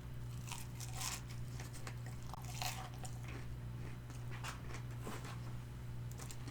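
Crispy Korean fried chicken being bitten and chewed close to the microphone: scattered short crunches, over a steady low hum.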